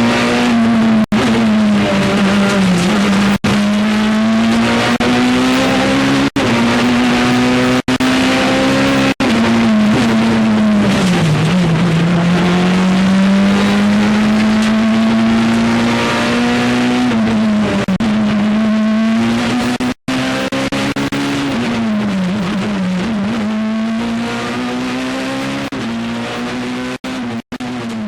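Peugeot 207 Super 2000 rally car's four-cylinder engine heard from inside the cabin, held at high revs. The pitch sags and climbs again several times, and short sharp cut-outs break the note every second or two.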